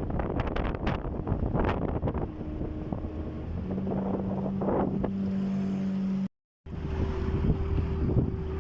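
Small fishing boat's motor running under way, with wind buffeting the microphone and water splashing over the first couple of seconds. The engine settles into a steady drone; the sound cuts out for a moment about six seconds in and returns with the engine at a different steady pitch.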